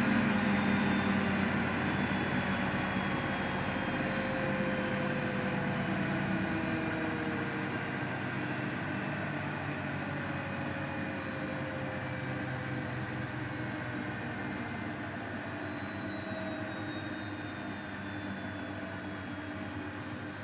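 Miele Novotronic W822 washing machine drum and motor spinning down at the end of the final spin: a mechanical whine whose tones slowly fall in pitch as it gradually gets quieter.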